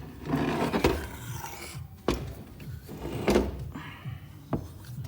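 Workshop handling noises: a few sharp knocks and thunks of parts being moved and set down, over background music.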